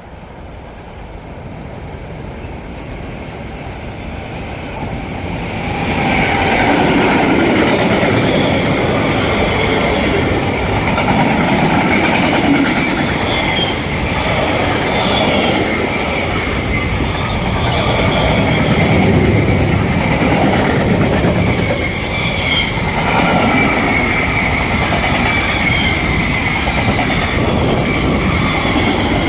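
A train approaching and then passing close by: the noise grows over the first six seconds into a steady rumble of wheels on rail, with a high-pitched wheel squeal sounding over it for the rest of the pass.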